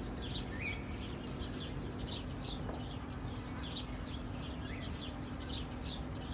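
Small birds chirping: short high chirps repeating several times a second, with an occasional rising call, over a steady low hum.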